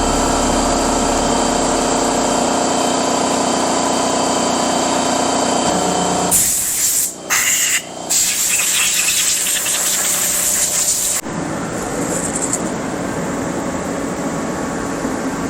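Dremel rotary tool with a wire brush running at a steady whine, then a loud hissing spray about six seconds in that drops to a quieter, lower hiss about eleven seconds in.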